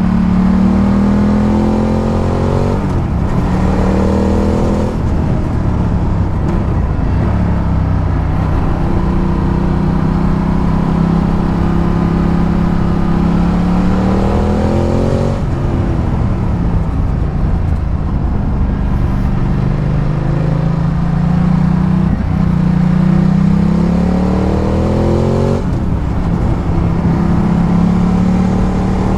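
Ducati Multistrada 1200's L-twin engine under way, its pitch climbing slowly for several seconds as it pulls and then dropping sharply, a few times over.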